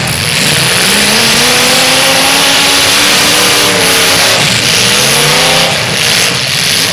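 Demolition derby cars' engines revving hard, the pitch climbing and sagging twice, over a loud rushing noise.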